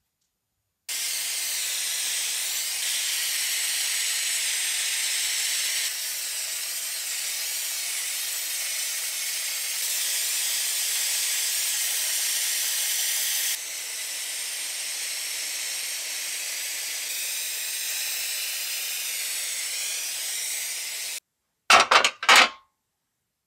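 Steady, loud air hiss like a compressed-air nozzle, cut into several short takes, stopping suddenly, followed by a few sharp knocks about a second later.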